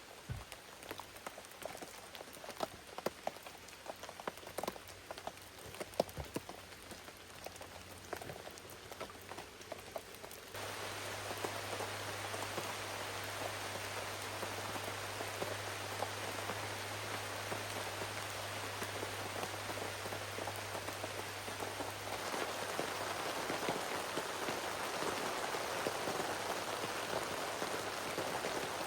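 Rain falling, with separate drops landing distinctly for the first ten seconds or so. About ten seconds in it switches abruptly to a denser, steady rain hiss, which grows a little louder again near the end.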